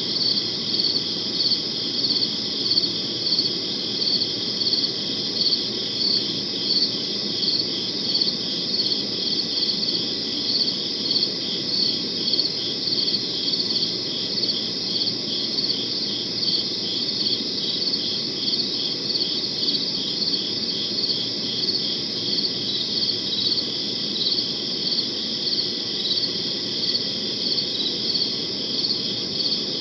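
Crickets chirping in a steady chorus, with a high, pulsing trill and a louder chirp repeating about twice a second.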